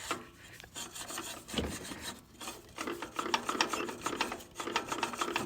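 Car AC compressor with the serpentine belt off, being turned over with an irregular gritty grinding and clicking. This is the noise behind the knock: the compressor is junk.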